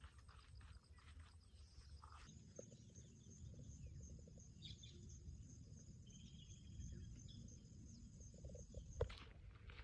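Faint rural ambience: a steady high insect trill, a short bird call about six seconds in, and low rumble. There is a sharp tap about nine seconds in.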